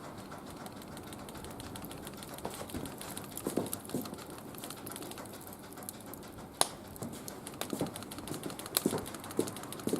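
Firewood burning in a barbecue grill, crackling with irregular snaps and pops; one sharp loud pop about two-thirds of the way through, and a run of pops near the end.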